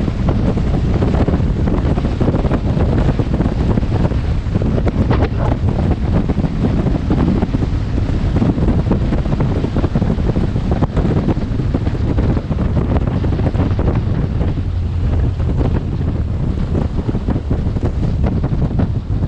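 Wind rushing over a helmet-mounted camera's microphone while riding a BMW R1200GS motorcycle, a steady low rush with no letup.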